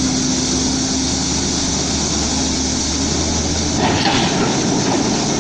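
Loud, steady noise of a vehicle or heavy machinery running, with a low hum underneath that stops about three and a half seconds in.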